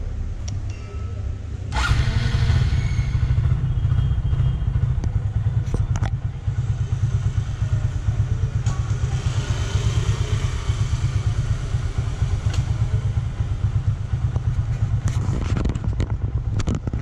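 Hero Glamour motorcycle's single-cylinder engine catching suddenly about two seconds in, then idling with a steady fast pulsing beat and a few light clicks.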